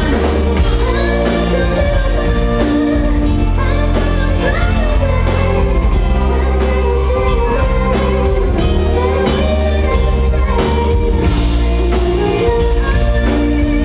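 Live pop concert music, loud and steady: a singer over a band with heavy bass and guitar.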